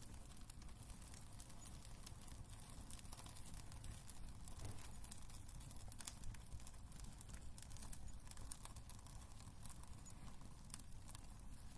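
Wood fire crackling in a fireplace: scattered sharp pops and snaps at irregular intervals over a low, steady rumble.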